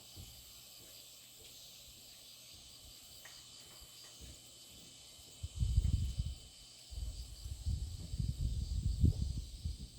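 Faint, steady high-pitched chirring of insects in the background of a rural dawn. From about halfway in, a loud, uneven low rumbling on the microphone takes over and comes and goes in gusts.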